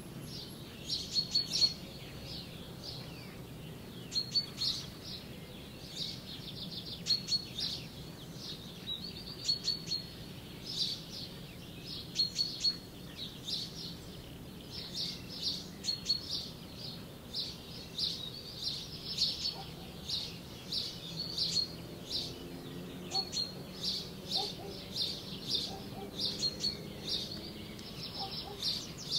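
Small birds chirping: clusters of short, high chirps every second or two, over a low steady hum.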